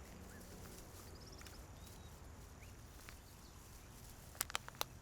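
Faint outdoor ambience with a few scattered bird chirps and a short trill. Near the end, a few sharp footsteps begin.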